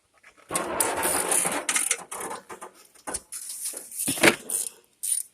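Hand tools working on the tractor's starter mounting: a rasping, scraping stretch about half a second in, then scattered metal clicks and knocks, the loudest about four seconds in.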